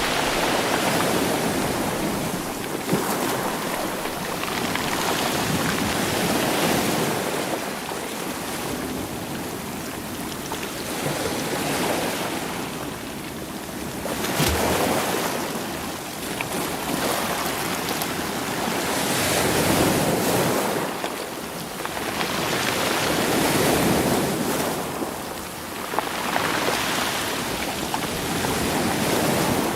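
Sea waves washing in and out over rocks and stones, swelling and falling back every few seconds, with rolling stones clacking now and then.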